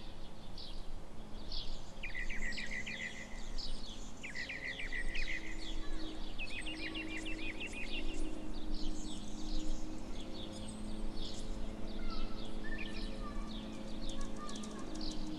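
Songbirds chirping and trilling again and again, short rapid phrases, over a faint steady low hum.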